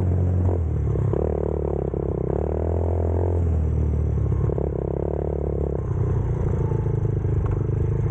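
Motorcycle engine running while riding. Its pitch shifts every couple of seconds as the throttle changes, over a steady low rumble.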